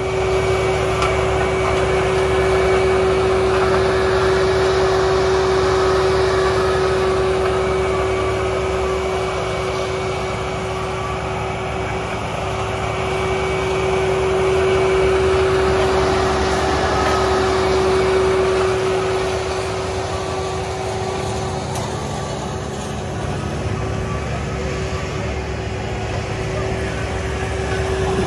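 Engines of asphalt paving machinery running steadily, with a constant hum and a dense mechanical roar that swells twice and eases as the machines work and move.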